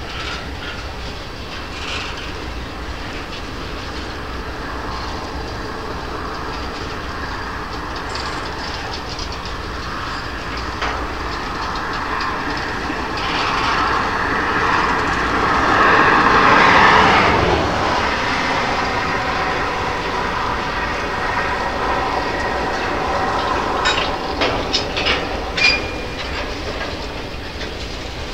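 Freight train of covered hopper cars rolling slowly past, a steady rumble of steel wheels on rail that grows louder around the middle. Near the end a quick run of sharp clicks as wheels pass over rail joints.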